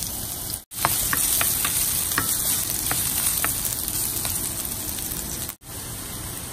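Ginger and garlic sizzling in hot oil in a wok, with a wooden spoon scraping and tapping against the pan as it is stirred. The sizzle cuts out briefly twice.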